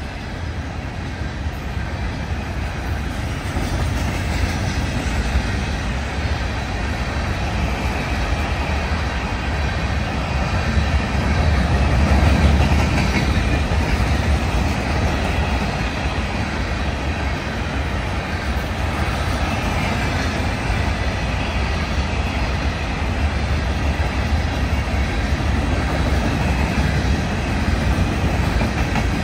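Empty freight cars (rock hoppers and gondolas) rolling past on steel wheels: a steady low rumble of wheels on rail that swells a little about twelve seconds in.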